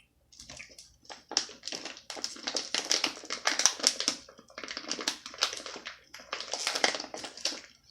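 Close-up chewing of gummy worm candy: wet, sticky clicks and smacks of the mouth, coming in several runs of a second or two with short pauses between.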